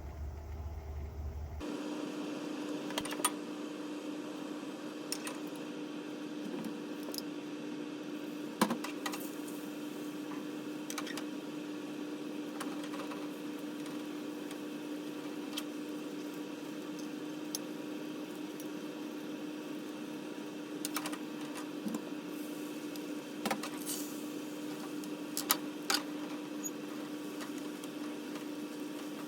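Steady hum of a running kitchen appliance, such as a range hood fan or microwave, holding one low tone. Scattered sharp clicks and clinks of utensils or dishes sound over it, a few of them louder.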